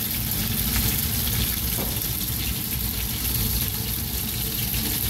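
Breadcrumbed fish fillets sizzling steadily in hot oil in a frying pan.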